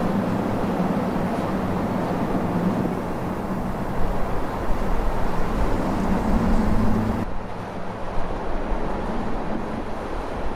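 CSX freight train passing: a steady rumble with a low diesel locomotive engine drone. About seven seconds in, the sound changes abruptly to a duller rumble.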